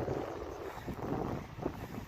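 Wind buffeting the microphone of a moving bike rider: an unsteady, gusting low rumble with no engine tone.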